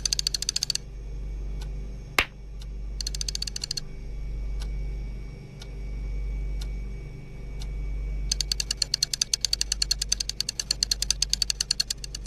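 Runs of fast, evenly spaced clicking, in three bursts with the longest near the end, plus one sharp single click about two seconds in. Under it a low hum swells and fades.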